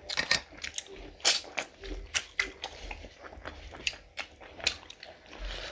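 Close-miked eating sounds of people chewing rice and curry: sharp, irregular mouth clicks and smacks, several a second.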